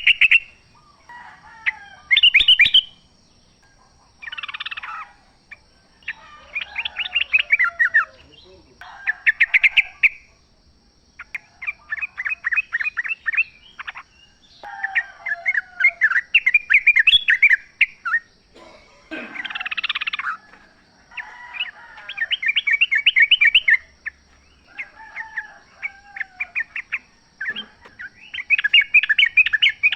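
Sooty-headed bulbuls singing: a string of chattering phrases, each a quick run of notes lasting one to two seconds, with short pauses between them. A faint steady high tone sits behind the calls.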